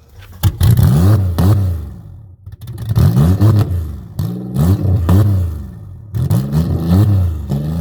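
Buick Century car engine revved hard over and over, each rev rising and falling in pitch, in several bursts with short lulls between.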